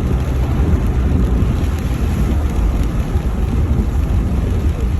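Steady low rumble of a vehicle driving: engine and road noise with an even hiss above it.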